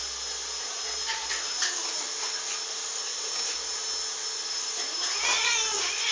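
A pet animal's wavering, drawn-out whining cry near the end, over a steady hiss.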